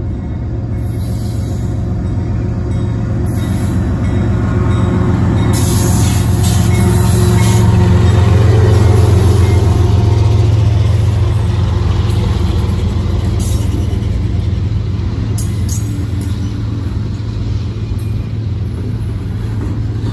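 Union Pacific ES44AC and two Norfolk Southern AC4400CW diesel locomotives passing close by under power, leading an intermodal freight train as it gains speed. The deep engine rumble builds to its loudest about halfway through, then gives way to the rolling rumble and occasional clicks of double-stack container cars.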